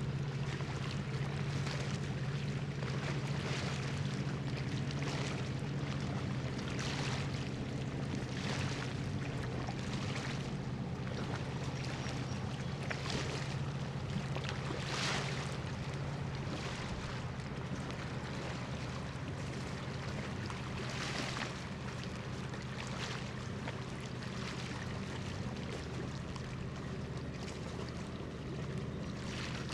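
Low, steady drone of a cargo ship's diesel machinery carrying across the water, with small waves lapping every second or two.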